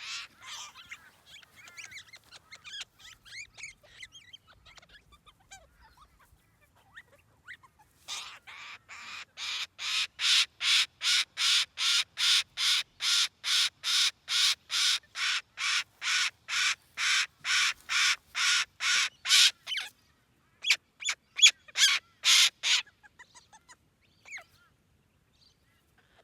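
A parrot screaming over and over, about two harsh calls a second for some ten seconds, then a few more screams after a short pause, with faint bird chatter before the screaming starts.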